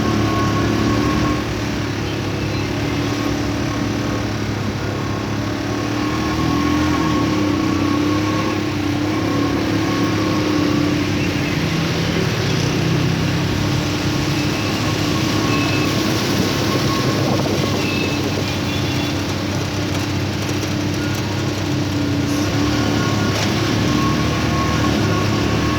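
A motor vehicle's engine running steadily, with a constant rush of noise over it.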